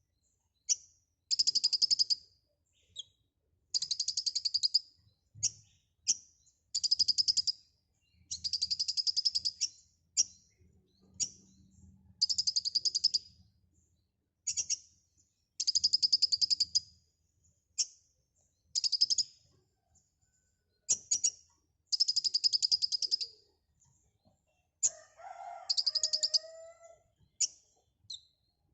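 A captive kolibri ninja sunbird singing vigorously ('gacor'): a run of high, fast, buzzy trills, each about a second long and separated by short chips. Near the end comes one lower whistled phrase.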